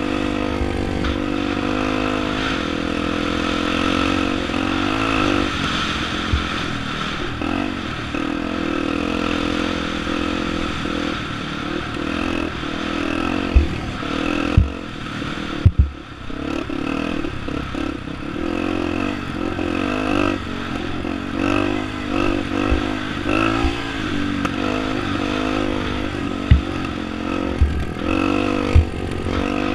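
Off-road motorcycle engine running hard, its pitch rising and falling with the throttle, with wind rushing over the microphone. Several sharp knocks come in a cluster about halfway through and again near the end, with a brief drop in the engine sound just after the middle.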